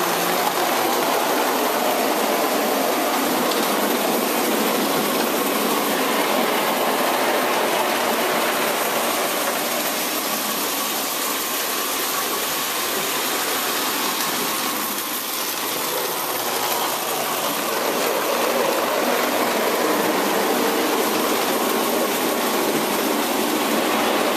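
Vintage Hornby O gauge tinplate electric locomotive with a 20-volt motor running steadily around its track, the motor whirring and the wheels clattering on the rails.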